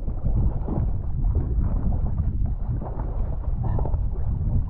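Wind buffeting the microphone over water sloshing around an inflatable board at sea, a steady low rumbling noise.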